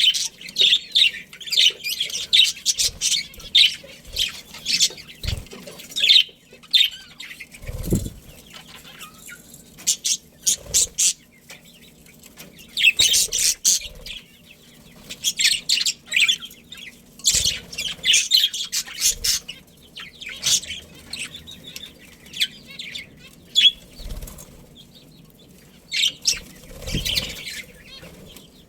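Budgerigars chattering in rapid, high, scratchy chirps that come in clusters with short pauses, with a couple of soft low thumps.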